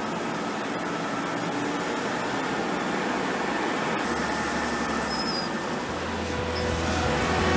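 Steady engine and road noise of a truck on the move; background music comes in near the end.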